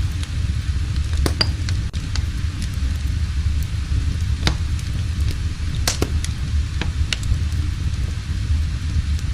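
Wood fire burning in a fireplace: scattered, irregular sharp crackles and pops over a steady low rumble.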